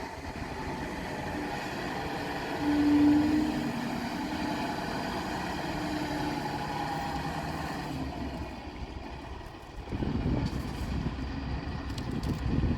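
Scania R580's 16-litre V8 diesel engine running, steady and low, with a louder swell about three seconds in and a brief dip just before it picks up again near the end.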